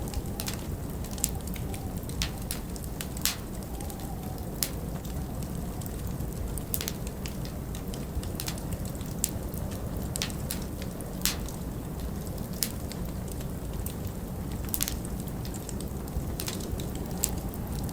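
Wood fire crackling, with irregular sharp pops about once a second, over a steady low rumble of wind that rises and falls faintly.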